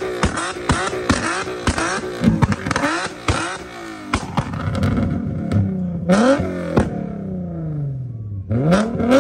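Nissan 370Z's V6 being revved while the car stands still: the engine pitch climbs quickly about six seconds in, sinks slowly back over the next two seconds, and climbs again near the end. Music with a quick steady beat fills the first half.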